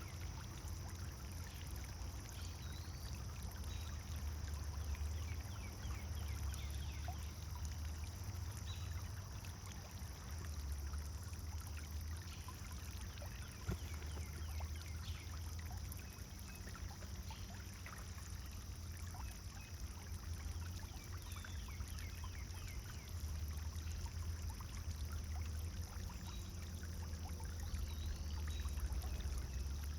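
Pond fountain water splashing and trickling steadily, with a constant pattering of droplets over a low rumble.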